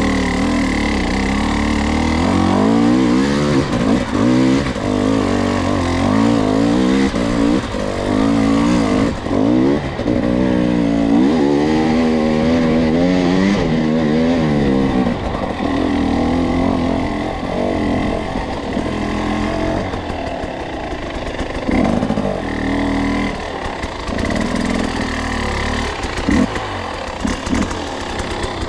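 Two-stroke enduro dirt bike engine under way at low revs, short-shifted and pulling on torque, its pitch rising and falling repeatedly with the throttle.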